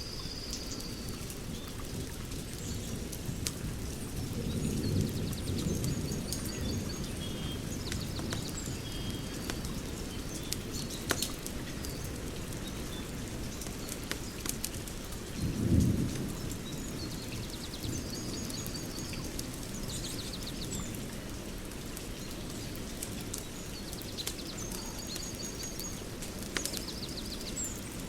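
Open fire crackling, with scattered sharp pops over a steady low rumble that swells twice, about five seconds in and more strongly near the middle. Birds sing short repeated trills in the background.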